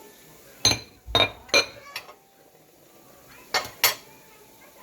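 Kitchenware clinking and clattering: three sharp clinks in quick succession within the first two seconds, then two more about three and a half seconds in.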